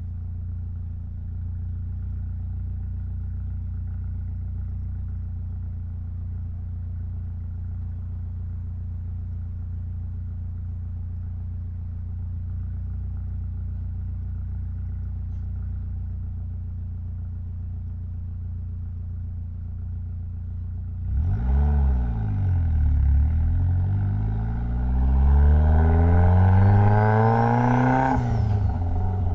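Mitsubishi Lancer Evolution X's turbocharged 2.0-litre four-cylinder engine running steadily at low revs, then about twenty seconds in pulling away hard: the engine note climbs, drops back at each gear change and climbs again, getting louder until the throttle is lifted near the end.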